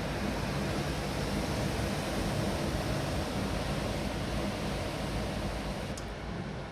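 Storm wind with heavy rain: a steady rushing noise, with uneven low buffeting of wind on the microphone. A brief click comes near the end.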